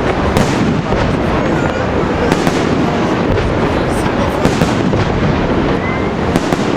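Large fireworks display with a dense, continuous barrage of bangs and crackling, with a few short whistles in between.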